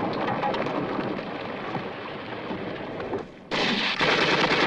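Battle sound effects from a war film: a dense rattle of gunfire and blasts that drops away briefly a little over three seconds in, then comes back suddenly louder.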